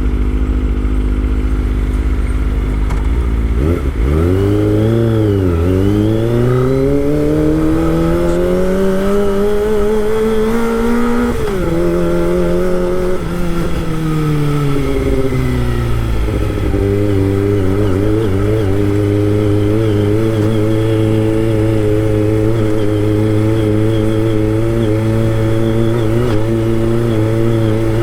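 Kawasaki Ninja ZX25R's 250 cc inline-four engine running. It holds steady at first, then about four seconds in it dips and begins a long rise in pitch until around eleven seconds, drops briefly, falls away again from about thirteen to sixteen seconds, and then runs steady.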